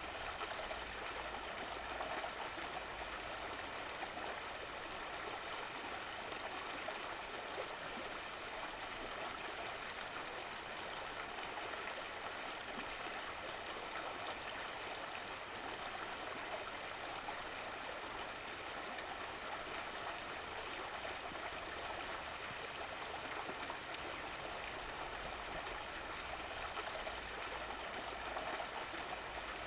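Running water: a stream flowing and trickling in a steady rush with no breaks.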